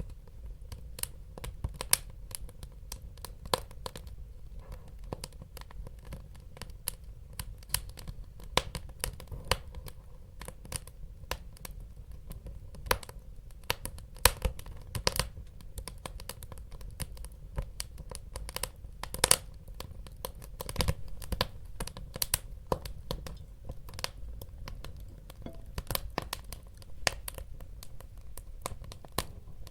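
Wood fire burning in a fireplace: dense, irregular crackles and sharp pops over a low, steady rumble of the flames.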